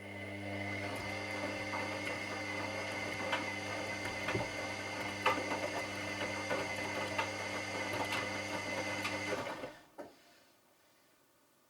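Washing machine drum motor running with a steady hum and scattered light clicks for about nine and a half seconds, then winding down and stopping, with a single click just after.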